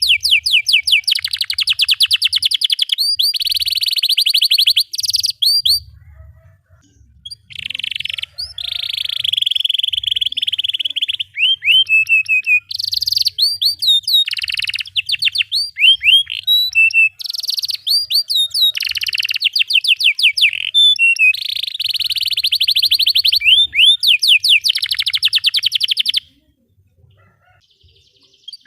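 Domestic canary singing a long, continuous song of fast rolling trills and chirps, each roll a rapid run of repeated sweeping notes, breaking off briefly about a quarter of the way in and again near the end.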